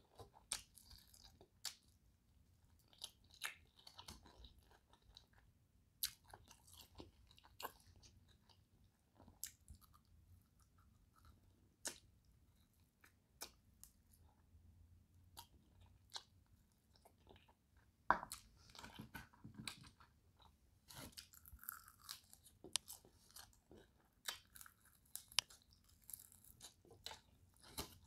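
Close-up chewing and biting of crispy fried chicken wings: irregular sharp crunches and crackles between quieter chewing, with the loudest and busiest crunching in the second half.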